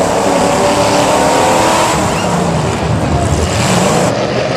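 Demolition derby car's engine running hard and revving up and down, heard from inside its stripped cabin.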